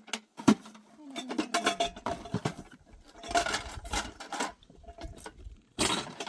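Pots and dishes knocking and clinking as they are handled, with one sharp knock about half a second in.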